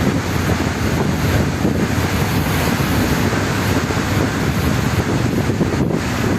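Steady wind buffeting the microphone aboard a moving ferry, over the rush of water along the hull.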